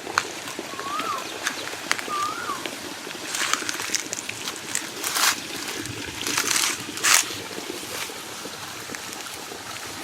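Footsteps on dry leaves, several crunching steps from about three seconds in. Before them a bird gives two short whistled notes that rise and fall.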